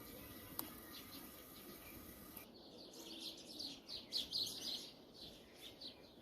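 Birds chirping: a quick, uneven run of short high chirps that starts about two and a half seconds in.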